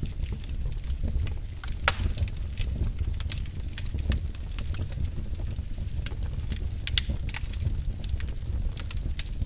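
Fire burning in a fireplace, crackling with irregular sharp pops over a low steady rumble of flame; a louder pop about two seconds in and another near seven seconds.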